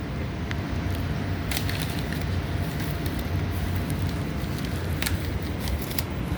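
Subway train standing at the platform: a steady low hum from the car's equipment with a faint steady whine over it, and a couple of sharp clicks.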